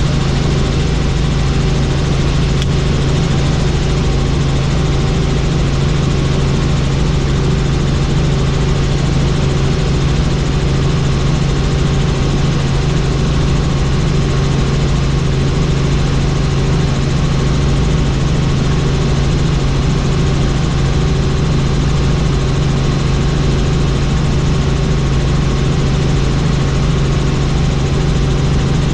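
Helicopter in flight, its engine and rotor running with a constant low hum that holds steady in pitch and level.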